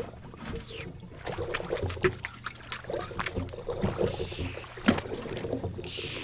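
Water sloshing and splashing, with a run of small clicks and knocks scattered through it.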